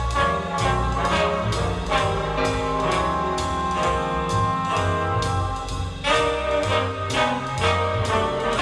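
Jazz track with horns over a steady drum beat, played back through a small two-way bookshelf loudspeaker and picked up by a microphone in the room.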